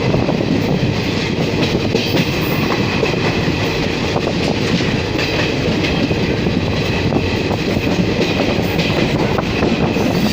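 Train running on the rails: a steady loud rumble with many short clicks from the wheels over the track.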